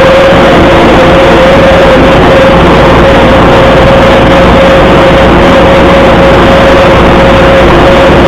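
Fordson Super Major tractor's diesel engine running steadily, with a constant whine held over it; very loud and unvarying, overloading the microphone.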